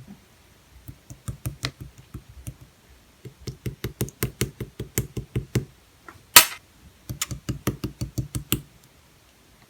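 Clear slime being pressed and poked, making runs of sharp clicking pops, about five a second, with one louder, longer pop just after the middle.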